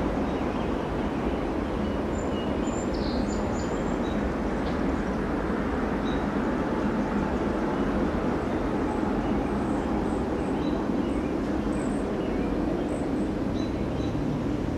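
Freight train rolling past, a steady rumble of wheels on rail with no change in level.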